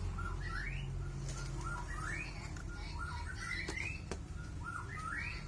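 Young white-rumped shama calling: a series of short phrases that sweep upward in pitch, repeated about once a second, over a steady low hum.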